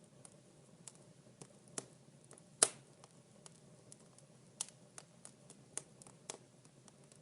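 Wood fire in a fireplace crackling: irregular sharp snaps and ticks, with one loud pop a little over two and a half seconds in.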